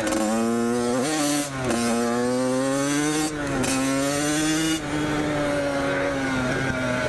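Dirt bike engine accelerating, its note climbing and then dropping sharply three times as the rider shifts up through the gears, then holding steadier and easing off slightly near the end.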